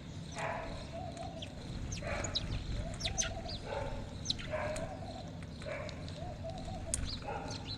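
Mixed birds calling together: many short, sharp high chirps over a lower warbling call that repeats about once a second.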